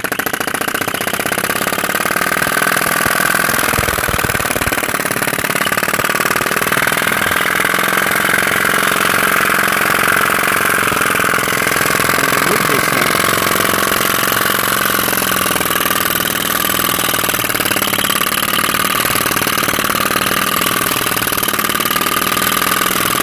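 Small PM Research flame-eater (vacuum) engine running steadily at a rapid, even beat on an alcohol flame, with a steady high squeak from its piston in the dry, graphite-lubricated cylinder.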